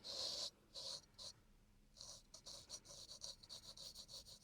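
Razor scraping across damp facial skin during a face shave: a few longer strokes, then from about two seconds in a run of short, quick scraping strokes, about four or five a second.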